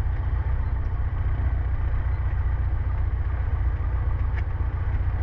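Cessna 150's four-cylinder Continental O-200 engine and propeller running steadily at low power on the ground, heard from inside the cockpit.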